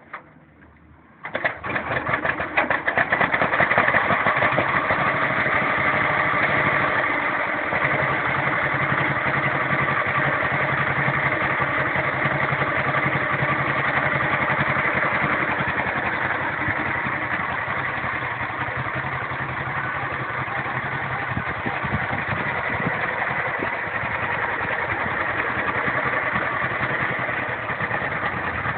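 1941 John Deere H two-cylinder tractor engine catching after being hand-started by its flywheel, firing about a second in and then running steadily, a little quieter after several seconds.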